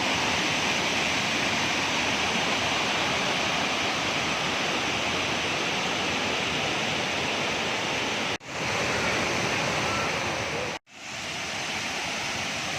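Steady, loud rush of falling water from the Kuang Si waterfall cascades. The sound cuts out briefly twice, about eight and eleven seconds in.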